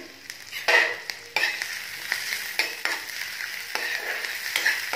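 Spice paste with cumin and crushed coriander sizzling in hot oil in a nonstick pan while a metal spoon stirs it, with repeated clicks and scrapes of the spoon against the pan.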